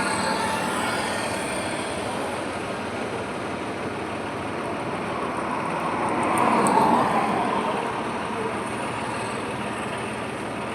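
Highway traffic: a steady wash of tyre and engine noise, with one vehicle passing close and loudest about six to seven seconds in.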